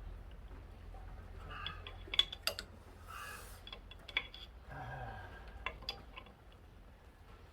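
Hand tools and metal parts clinking and tapping: a handful of sharp clinks spread over several seconds.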